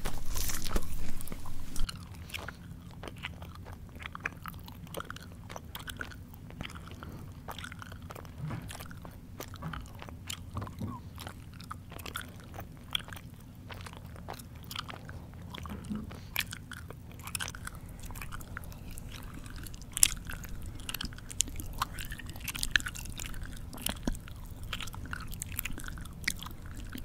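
A person chewing food with the mouth, loud crunching bites for about the first two seconds, then quieter chewing with many short, irregular mouth clicks and smacks.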